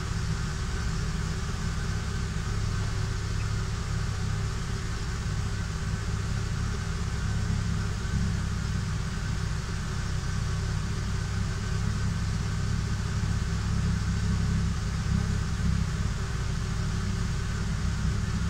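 2007 Chevy C2 engine idling steadily.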